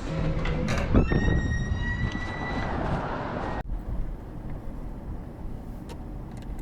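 Car road noise with a low rumble. About a second in, a steady high-pitched beep sounds for roughly two seconds, then the sound cuts to quieter road noise.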